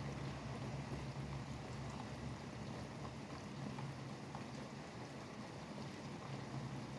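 Steady rain falling, with a constant low rumble of highway traffic underneath.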